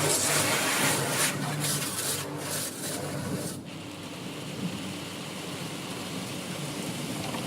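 Automatic car wash brushes scrubbing over a car's body, in uneven strokes over a steady low machine hum. The scrubbing dies away about three and a half seconds in, leaving the quieter hum and a soft hiss.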